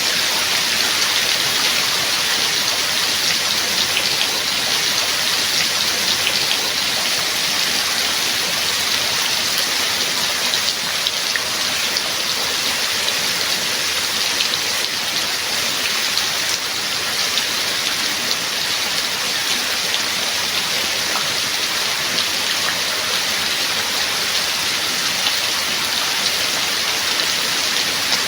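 Steady heavy rain, a dense hiss of raindrops with fine individual drop ticks, without letting up.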